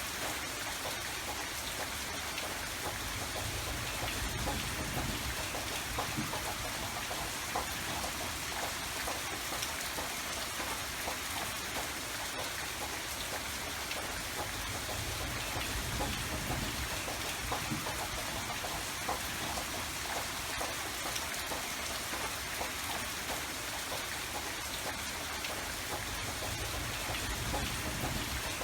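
Steady rain falling and pattering on surfaces, an even hiss without let-up, with a deeper low rumble swelling under it a few times.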